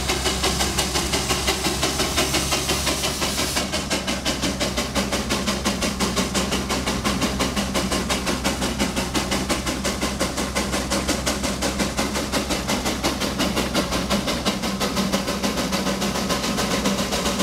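Steam traction engine running, its exhaust chuffing in a steady rhythm of about three beats a second. A high steam hiss over the top stops about three and a half seconds in.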